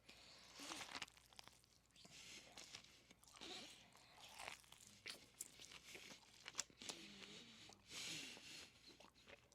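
Faint chewing and biting of a boiled, seasoned cabbage: irregular wet crunching mouth sounds, bite after bite.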